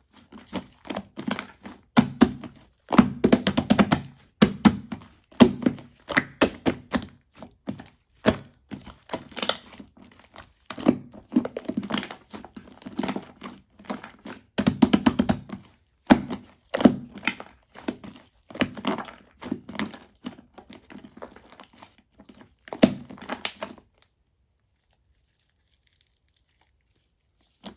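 Shaving-foam slime being squeezed and kneaded by hand, a dense run of crackling pops and squishes that comes in waves. It stops suddenly about 24 seconds in, and the remaining few seconds are silent.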